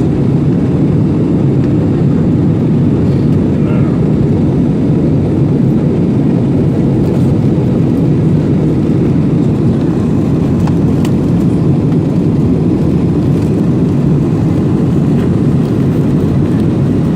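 Steady, loud cabin noise inside an Airbus A320-family airliner climbing after takeoff: an even, low rumble of engines and airflow that does not change.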